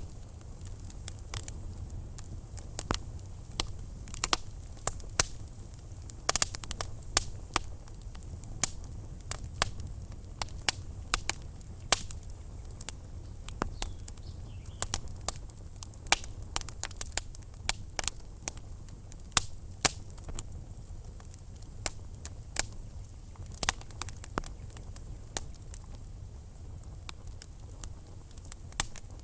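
Wood fire crackling in a fireplace, with frequent irregular sharp pops and snaps over a steady low rumble of the flames.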